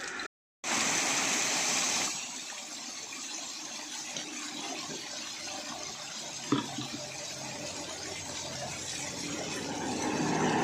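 Water flowing and splashing steadily, louder for the first second or so after a brief dropout, with a single knock about midway.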